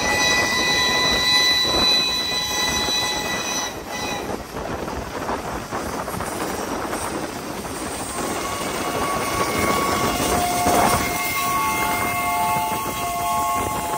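Two trains running side by side on parallel tracks, with wheel-and-rail clatter and rumble throughout. A train's chime horn sounds a long blast for about the first four seconds, and a second, lower-pitched chime sounds from about eight and a half seconds in until near the end.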